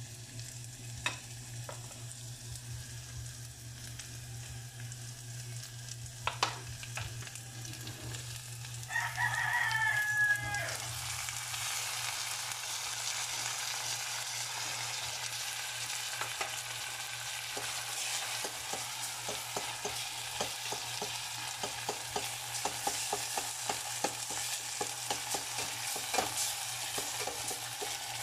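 Corned beef hits a hot pot of sliced onions about eleven seconds in and sizzles loudly from then on, with a utensil clicking and scraping against the pot as it is stirred. Before that there is a steady low hum and a few taps of a fork on a plate, and a rooster crows once just before the meat goes in.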